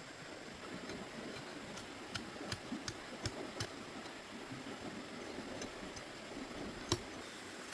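A scatter of sharp taps and knocks over a steady background hiss. Several come close together between about two and four seconds in, and one louder knock falls near the end.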